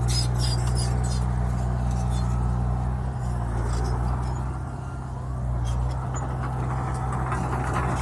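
Bulldozer's diesel engine running steadily, with short metallic clatter in the first second and again about six seconds in. The engine eases off briefly about five seconds in.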